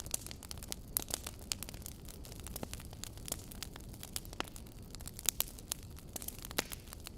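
Wood fire crackling in a fireplace: irregular sharp pops and snaps over a low steady rumble, with a few louder pops about a second in and past the middle.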